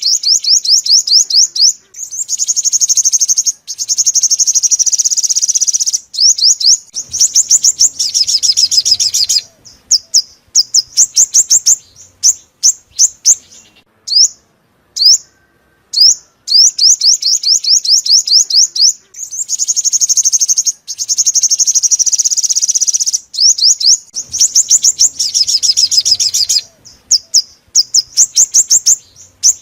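Sunbird song: rapid series of high, sharp chirps alternating with dense trills, played as a looped lure recording that repeats about every 14 seconds.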